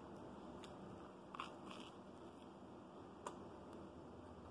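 Faint crunching and chewing of a toasted grilled cheese sandwich, with a few soft crackles of the crisp crust, about a second and a half in and again past three seconds.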